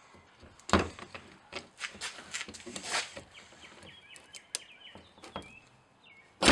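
Scattered metal knocks and clicks from an angle grinder's disc nut being worked loose with a wrench, the loudest about a second in, with birds chirping in the background.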